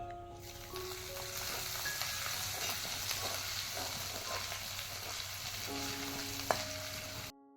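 Food frying in hot oil in a pan, a steady high sizzle with crackles, over soft background music. There is one sharp knock near the end.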